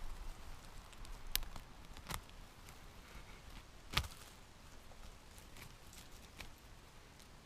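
Footsteps on a forest floor: faint rustling with a few scattered twig snaps, the loudest about four seconds in.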